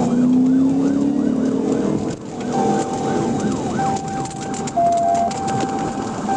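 Police car siren on a fast yelp, sweeping up and down several times a second, then changing about two and a half seconds in to a steady held tone that dips briefly near the end. Under it, an engine rises in pitch during the first second or so.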